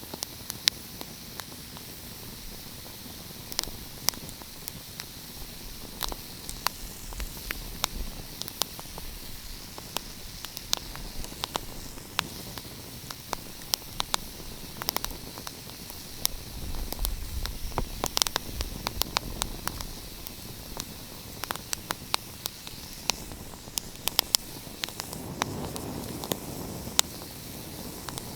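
Wood fire crackling, with frequent irregular sharp pops over a steady hiss. A soft low rush swells twice, about halfway through and again near the end.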